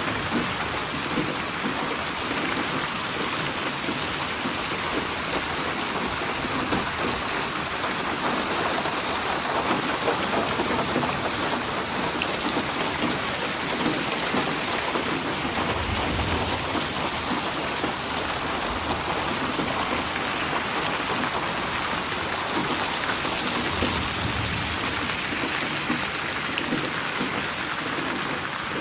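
Steady heavy rain falling, with low rumbles of distant thunder about halfway through and again later on.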